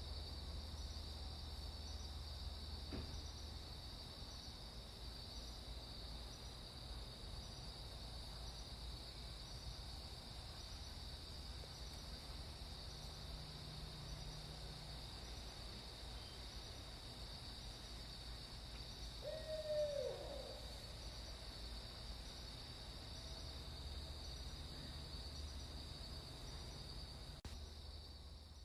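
Barred owl calling once, a short hoot that slurs downward about two-thirds of the way through. It sounds over a steady high-pitched insect drone and a low background rumble.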